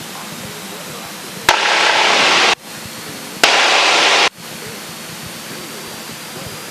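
Two loud bursts of radio static hiss, each about a second long, cutting in and out abruptly as the aircraft radio's squelch breaks open. Underneath, the steady muffled cabin noise of a Cessna 172K at takeoff power on its takeoff roll.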